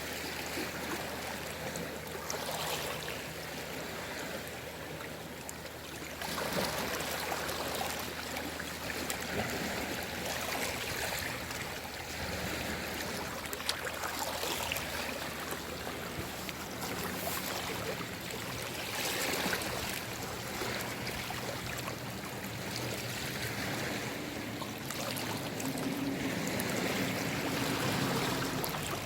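Small, calm sea waves washing onto the shore, the wash swelling and easing every few seconds.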